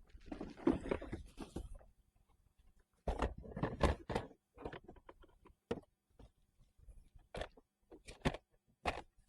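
Irregular knocks and clunks of gear being handled on a kayak, with a short run of clattering at the start and again about three seconds in, then single sharp knocks.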